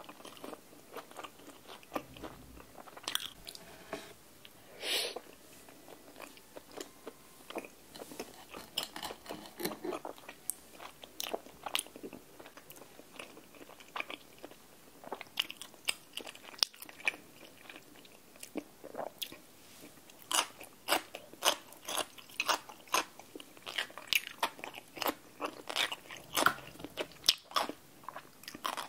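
Close-miked chewing and biting of rose tteokbokki (chewy rice cakes in a creamy spicy sauce), a crispy fried Korean cheese corn dog and pickled radish, with many wet mouth clicks and crunches. The clicks come thicker and louder in the second half.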